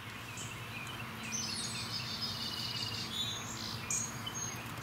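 Songbirds chirping and singing rapid high trills, starting about a second in, over a steady low background hum.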